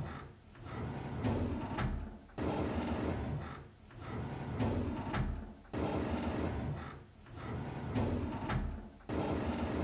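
A drawer sliding open with a rumbling, rattling slide, the same recording looped about every three and a half seconds. Each pass starts abruptly and fades into a short lull, three times over.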